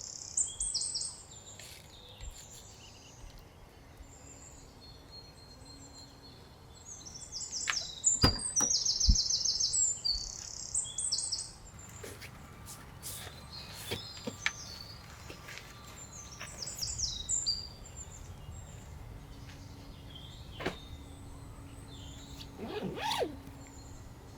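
Small birds calling in bursts of quick, repeated high chirps, over a low outdoor background. Scattered sharp clicks and knocks come in between, loudest around 8 to 9 seconds in.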